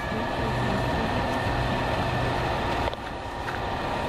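Diesel freight train running past with a steady low engine rumble and a faint high tone held underneath. The rumble dips briefly about three seconds in.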